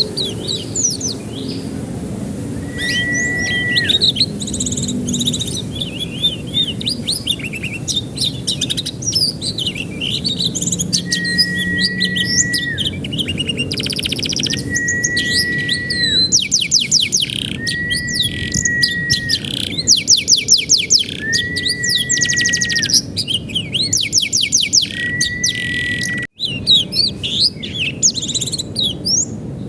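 Canary singing: rapid chirps and fast rattling trills, with a flat whistled note held about a second that comes back every two to three seconds. This is the kind of song played as a 'masteran' to teach young canaries to sing.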